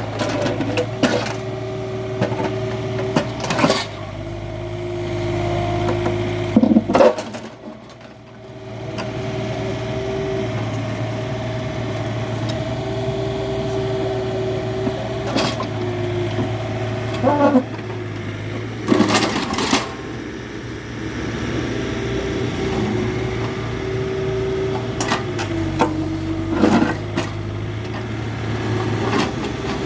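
Excavator's diesel engine running steadily under a hydraulic whine that steps up and down in pitch, with several sharp knocks and scrapes from the digging. The sound drops away briefly about eight seconds in.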